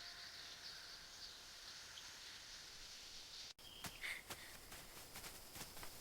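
Faint forest ambience: a steady high-pitched insect drone. About three and a half seconds in it cuts off abruptly, and a run of irregular sharp taps follows, with a short bird chirp.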